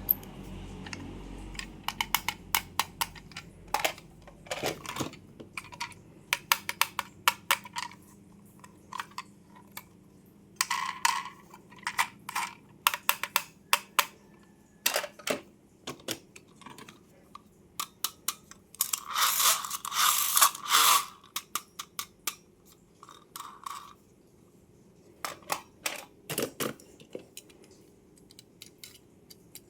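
Toys and their plastic packaging handled during an unboxing: a steady run of sharp clicks and taps, with a longer crinkling rustle a little past the middle.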